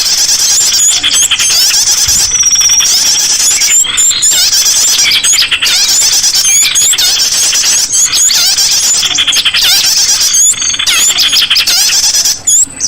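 Loud, dense chorus of many small songbirds calling at once: high chirps, rapid buzzy trills and short whistled glides overlapping without a break. It is a pikat lure recording of small birds, played to draw them in.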